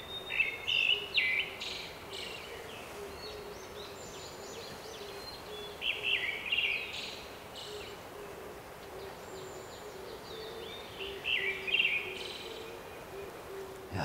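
A songbird singing in three short bouts of quick, sliding chirped phrases, about five seconds apart, with a faint steady low hum underneath.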